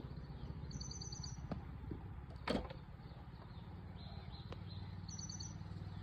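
A bird chirps in two quick runs, about a second in and again near the end, over a steady low hum. A single knock about two and a half seconds in.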